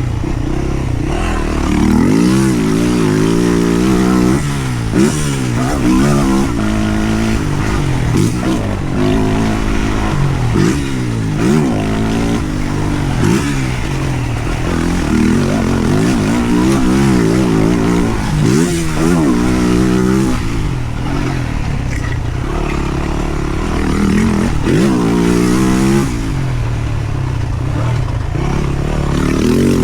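Yamaha YZ450F's single-cylinder four-stroke engine being ridden hard, revving up and dropping back over and over as the throttle is opened and shut, the pitch rising and falling every second or two.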